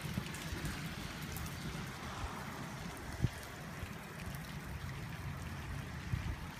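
Steady heavy rain falling and splashing onto flooded pavement and puddles, with a low rumble underneath and one sharp tap about three seconds in.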